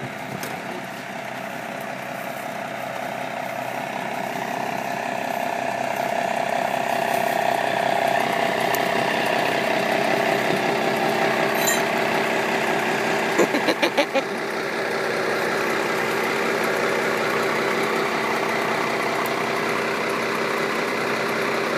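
Truck engine running under load as it tries to pull a mired 5-ton 6x6 military truck out, getting louder over the first several seconds and then holding steady. About two-thirds of the way through, a quick run of about five knocks or clanks.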